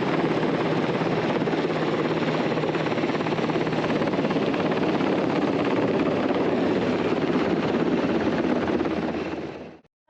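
Helicopter rotor and turbine running steadily, a continuous loud drone that fades out just before the end.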